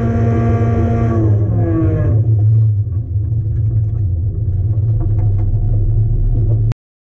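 Mazda Miata's four-cylinder engine heard from inside the cabin, holding steady revs and then dropping back about a second in. It settles into a low rumble with light ticks and rattles, and the sound cuts off suddenly near the end.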